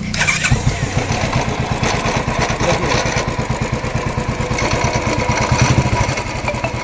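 Royal Enfield Classic 350 single-cylinder engine started with the electric starter, catching about half a second in and running with a steady pulsing beat and a knocking (khat-khat) noise. The mechanic takes the knock for a broken part inside the engine.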